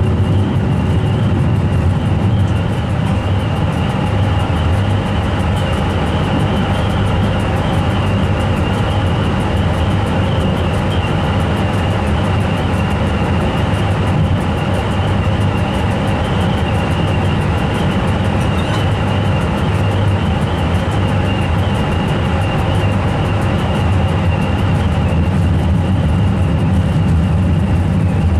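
Train running at steady speed, heard from inside the driver's cab: a constant rumble of wheels on the rails with a steady high whine over it.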